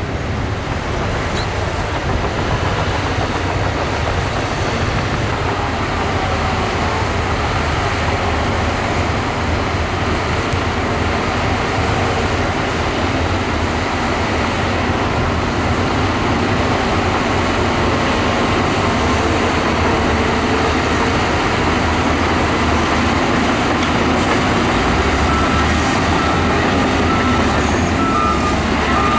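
Heavy diesel earthmoving machinery, a bulldozer and dump trucks, running steadily and loudly. Faint short repeated beeps come in near the end.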